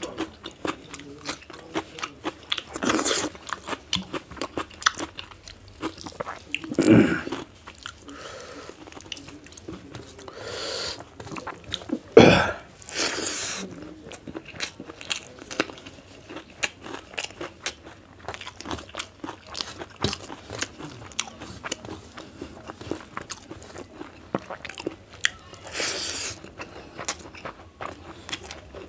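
Close-up eating sounds: chewing and crunching of raw cucumber slices and rice with wet mouth clicks, with a few louder bursts about 3, 7, 12 and 26 seconds in.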